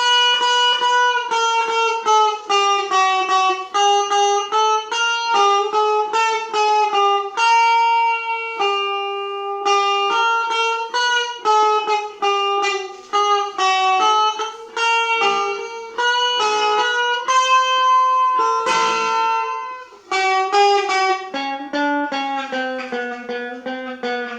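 Guitar playing a slow melody of single notes, one at a time, starting abruptly. A brief burst of noise cuts in about three quarters of the way through.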